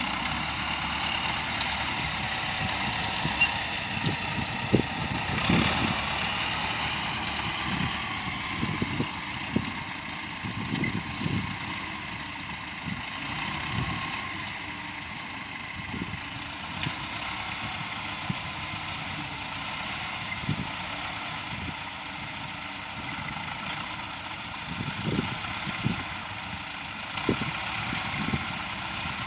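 T-40 tractor's diesel engine running steadily, with scattered short low thumps and knocks.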